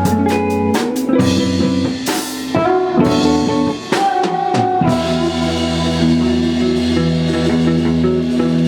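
Live band playing: drum kit and electric guitar. Quick steady cymbal ticks give way to a busy run of drum hits with a cymbal splash about two seconds in, and from about five seconds in the guitar holds ringing chords.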